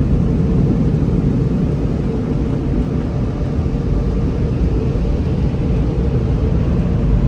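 Steady low exhaust drone and road rumble of a moving 2016 Ford Focus, straight-piped with no muffler or resonator.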